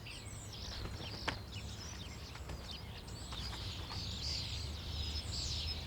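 Common starlings calling: a busy jumble of short sliding whistles, chirps and clicks.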